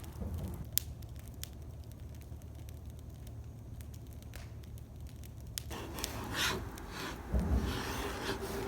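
Wood fire crackling with scattered sharp pops over a low rumble, joined by denser rustling and scraping from about six seconds in.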